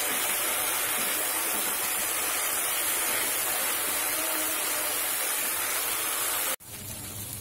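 Mushrooms, onions and sauces sizzling in hot oil in a kadai over a high gas flame while being stirred: a steady hiss that drops suddenly to a quieter hiss near the end.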